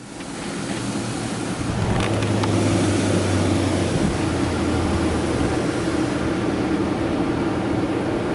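D&S 5000 touchless car wash machinery running: a steady rushing noise over a low hum, swelling over the first couple of seconds and then holding level.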